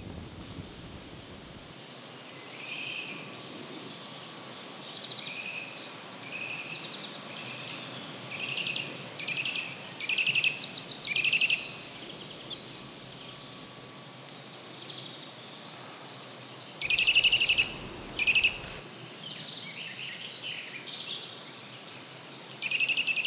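Songbirds singing: short chirping phrases repeated throughout, with a loud rapid trill about ten seconds in and two loud bursts of song near seventeen seconds.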